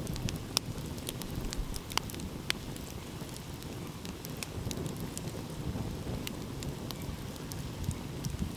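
Wood fire crackling, with scattered sharp pops, the loudest about half a second and two seconds in. Under it is a steady low rumble of ocean waves.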